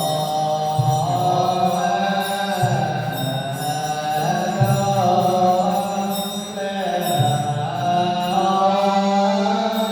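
Buddhist chanting: a slow, sustained sung melody over a steady low drone, with a low beat roughly every two seconds.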